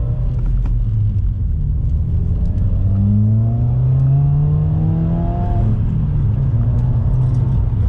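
Subaru WRX's turbocharged flat-four running through a newly fitted cat-back exhaust: idling, then one slow rev climbing for about three seconds before dropping back to idle. The owners call the new exhaust note good and clearly different.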